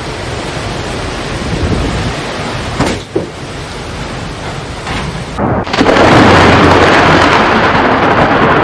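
Thunderstorm: heavy rain with rumbling thunder. About five and a half seconds in, the sound changes abruptly and becomes louder and denser.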